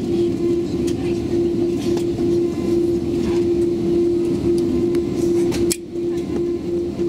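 Cabin noise inside an Airbus A330 rolling on the ground after landing: a steady low rumble with one constant hum over it, and faint clicks and knocks. The noise drops briefly about six seconds in.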